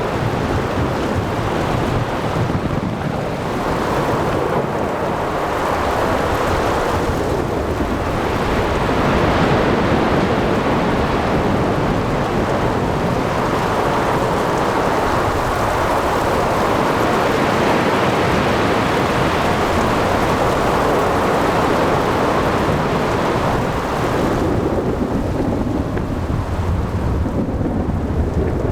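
Heavy thunderstorm at sea: steady rain and wind with rolling thunder rumbling, swelling and easing over several seconds, and ocean waves washing beneath.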